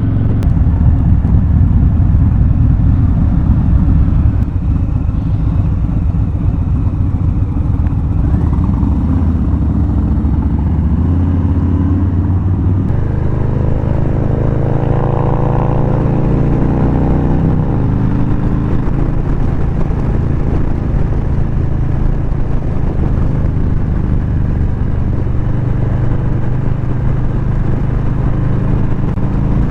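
V-twin cruiser motorcycle engine running steadily while riding, with road and wind noise. About a third of the way in the engine note shifts, and a faint rising and falling whine follows for a few seconds.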